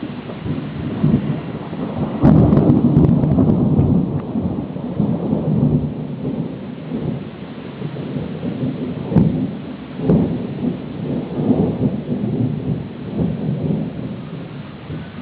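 Thunder rolling in a thunderstorm over a steady hiss of rain. The loudest peal comes about two seconds in and rumbles for a couple of seconds, with several shorter rolls later on.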